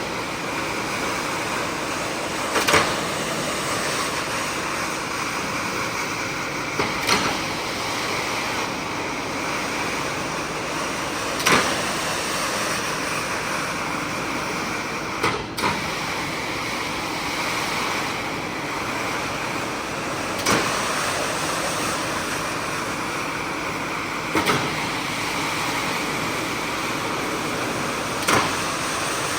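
Steady rushing noise of carpet-cleaning equipment at work, with a short sharp knock about every four seconds.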